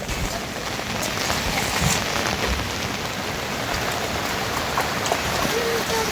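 Steady rain falling, with sharper individual drops and drips landing close by.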